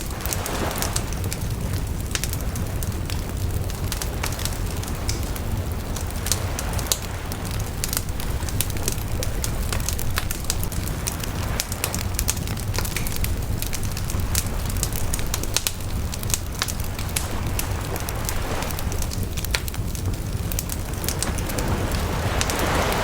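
Bonfire burning: a steady low rumble of flames with a continual scatter of small crackles and pops from the burning wood, and a soft swell of hissing about a second in and again near the end.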